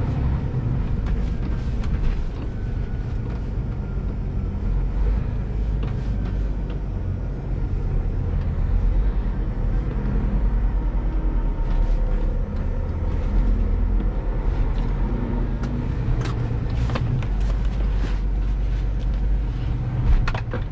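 Scania G410 truck's six-cylinder diesel engine running steadily while driving under load. Several sharp clicks or knocks come near the end.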